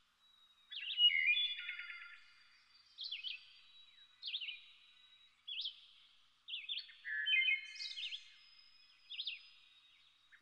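Birds singing: short chirping calls and trills with quick up-and-down swoops, repeated about every second.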